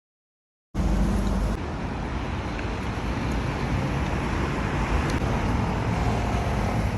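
Road traffic noise on a city street: a steady rumble of passing cars that starts abruptly about a second in.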